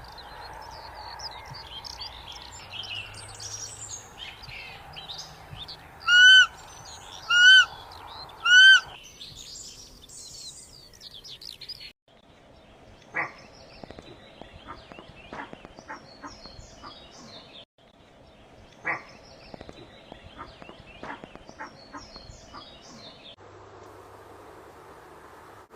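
Roe deer giving three short, high-pitched calls about a second apart, each rising then falling in pitch, over steady birdsong. About twelve seconds in the recording changes to quieter birdsong with scattered clicks.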